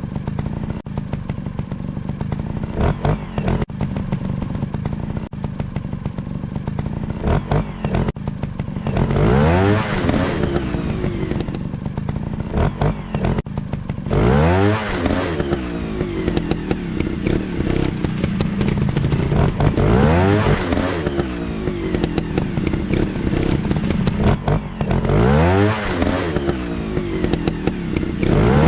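Motocross dirt bike engines running hard, rising and falling in pitch four times as the bikes accelerate and back off.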